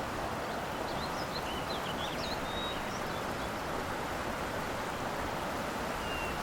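Steady outdoor background hiss of open natural surroundings, with a few faint, short, high chirps of small birds about one to three seconds in.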